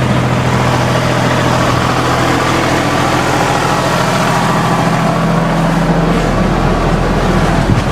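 Tractor engine running steadily, with a slight change in its low note about five to six seconds in.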